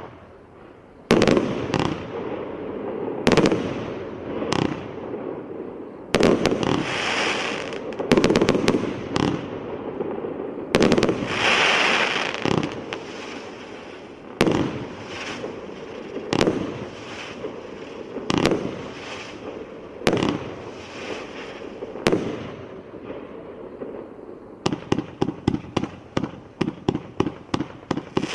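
UralSalut 'Generalsky' fireworks battery (cake) firing its shots: sharp bangs about every one to two seconds, some followed by a crackling spray, then a fast volley of about a dozen shots, three or four a second, near the end.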